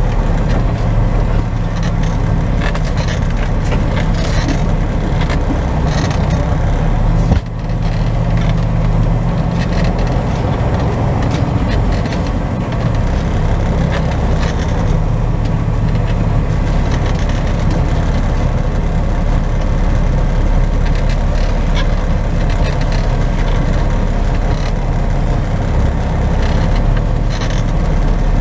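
Semi truck's diesel engine running as the rig is driven slowly, a steady low hum heard from inside the cab, with one sharp click about seven seconds in.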